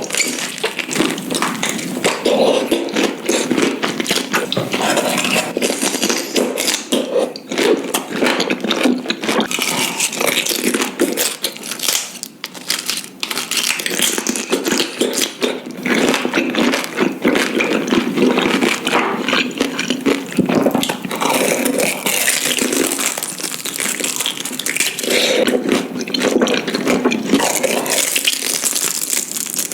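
Someone chewing intestines: a continuous run of wet chewing sounds dotted with many small clicks.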